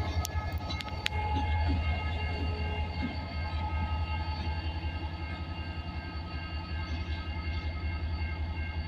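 Freight train moving slowly behind an EMD SD40-2 diesel-electric locomotive: the 16-cylinder two-stroke diesel's steady pulsing rumble, with high steady squealing tones from the wheels and a few sharp clicks in the first second.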